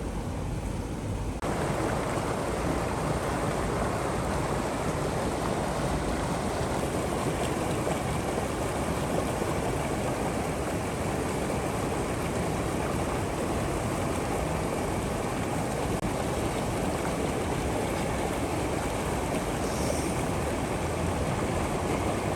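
River water rushing steadily, a continuous even wash of sound that steps up slightly about a second in.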